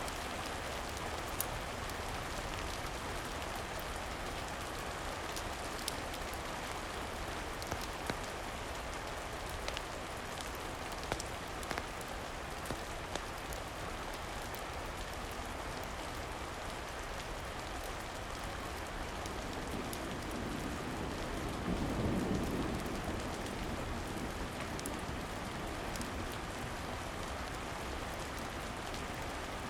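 Steady rain falling, with scattered sharp crackles throughout. A low rumble of thunder swells and fades about two-thirds of the way through.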